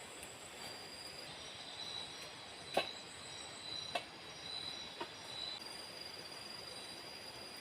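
Tropical forest ambience: a steady high-pitched insect drone over a soft hiss, with three sharp clicks about a second apart in the middle.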